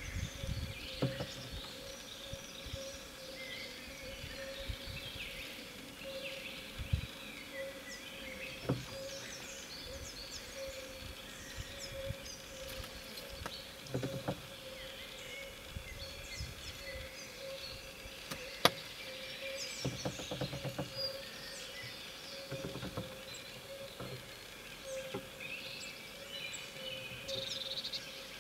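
A white wagtail pecking and fluttering against a car's side mirror, fighting its own reflection: scattered sharp taps, one much louder than the rest about two-thirds through and a quick flurry of taps soon after. Behind it, many forest birds sing and call.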